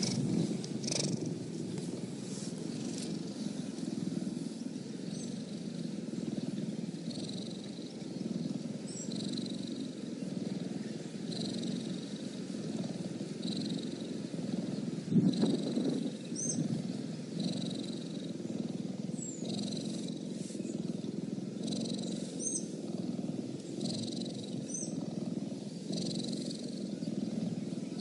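Cheetah purring: a steady, continuous low rumble.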